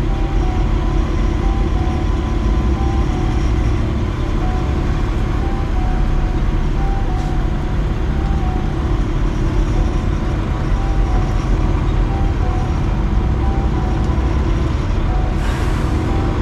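Heavy diesel engine running steadily with a deep rumble, with a short hiss near the end.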